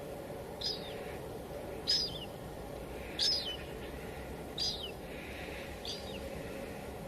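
Steady light drizzle, with a bird repeating a short, high call with a falling tail five times, about once every second and a quarter.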